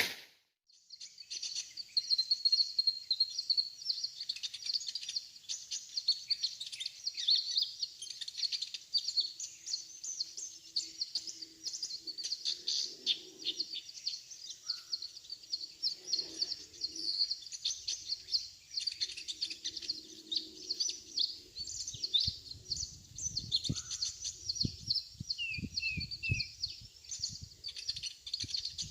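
Kolibri ninja sunbirds chirping and twittering in rapid, high-pitched runs, the call used as a lure to bring wild sunbirds down to the trap. Low thumps come in near the end.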